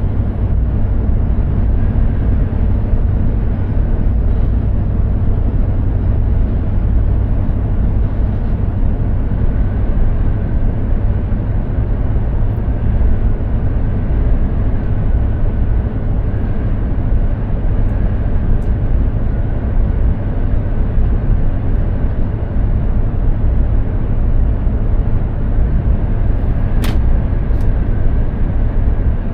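Mercedes-Benz Actros 2763 truck driving along: a steady low drone of engine and tyre noise, with a faint high whine and a couple of short clicks near the end.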